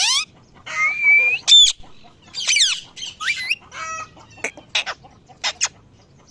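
A parrot calling: a quick run of short squawks and chirps with brief gaps between them, several of them sliding up or down in pitch and one held a little longer about a second in.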